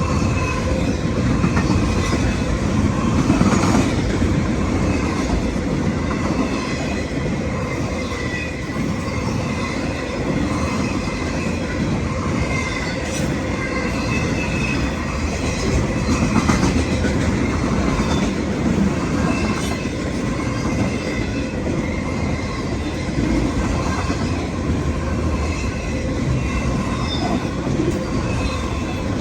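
CSX autorack freight cars rolling past in a steady, loud rumble of wheels on rail, with faint high wheel squeal running through it.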